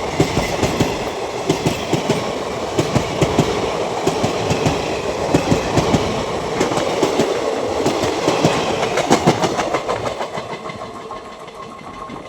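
Passenger train passing at speed, its wheels clacking over rail joints in quick irregular knocks over a steady rumble. The sound fades away near the end.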